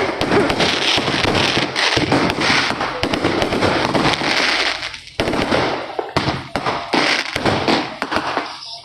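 Dense, rapid crackling of many firecrackers and fireworks going off, a continuous rattle of pops that thins into separate bursts with short gaps about five seconds in.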